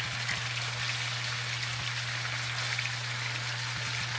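Chopped chicken thighs frying in olive oil in a pan, sizzling steadily with faint crackles, over a steady low hum.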